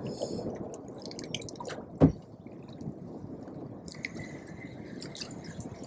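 Water dripping and small splashes, with one sharp knock about two seconds in.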